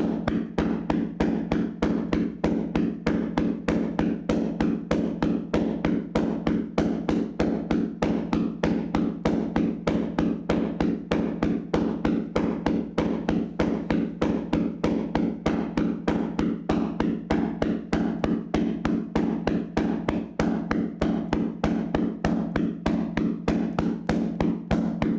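Hands slapping and tapping on a person's body in a massage, a fast steady rhythm of about four strikes a second.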